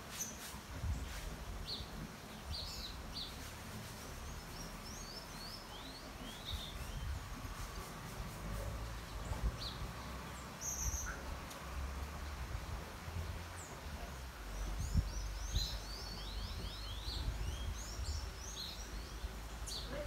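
Birds calling with short, high chirps, scattered at first and coming in quick runs near the end, over a low rumble.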